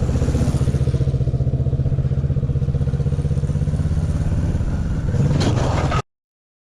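Kawasaki Ninja 650's parallel-twin engine running steadily with a fast, pulsing exhaust beat. Near the end there is a brief clatter, then the sound cuts off abruptly.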